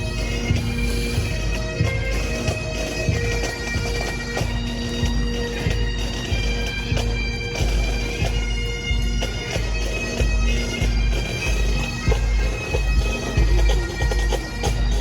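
Bagpipes playing a tune over their steady drones, with a heavy, uneven low rumble underneath.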